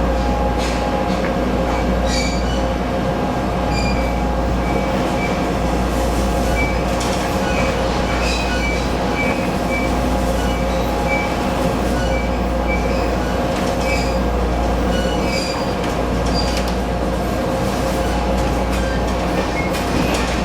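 Train running past on the track with a steady loud rumble and hum, dotted with many short high-pitched wheel squeals.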